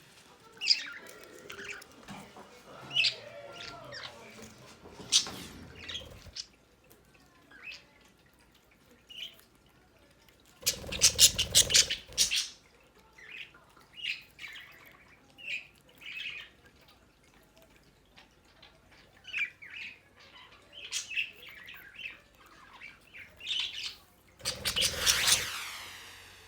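Pet budgerigars chirping and chattering in short, scattered calls, with two louder bursts of rapid rustling about eleven seconds in and again near the end.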